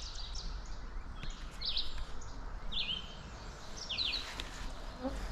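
A songbird repeating a short, high chirped phrase, three times about a second apart, over a low steady outdoor rumble.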